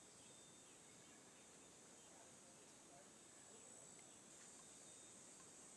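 Faint, steady high-pitched chirring of insects over a low hiss.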